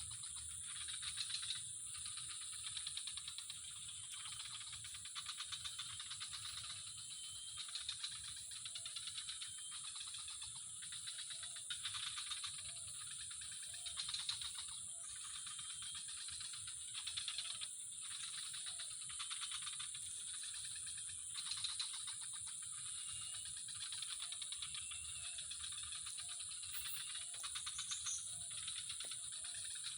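Chorus of calling animals: a steady high-pitched drone, with rattling trills that pulse every second or two and soft short chirps repeating in runs.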